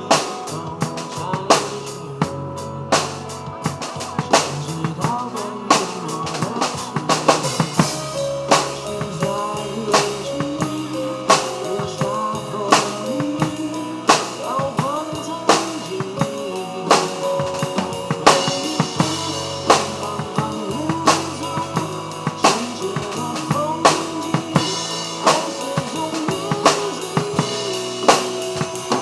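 Drum kit played live, with kick drum, snare and rimshot hits keeping a steady beat over a pop ballad's backing track in an instrumental passage without vocals.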